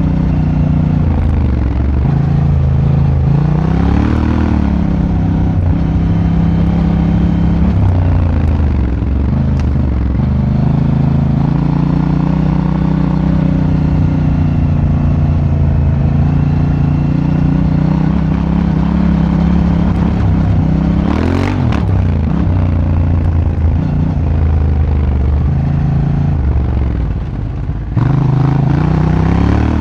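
Honda Africa Twin's parallel-twin engine heard on board while riding, its note rising and falling with the throttle. There is a sharp rev about two-thirds through and a brief dip in engine sound near the end.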